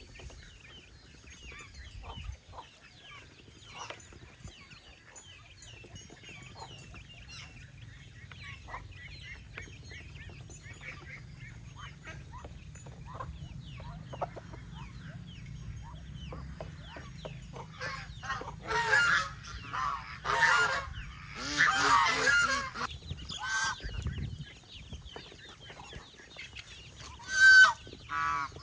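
Domestic geese honking: a run of loud calls about two-thirds of the way in and one more near the end, over faint, continuous chirping of other poultry.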